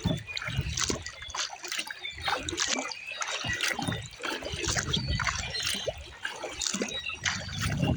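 Water splashing, trickling and dripping around a kayak, as from paddle strokes and water running off the paddle blades. Low rumbles of wind on the microphone come and go, strongest near the end.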